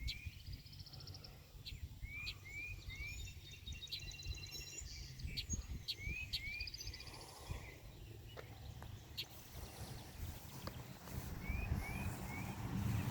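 Songbirds singing: one bird repeats short rising whistled notes, often two or three in a row, while higher trills from other birds come and go. A low rumble runs underneath.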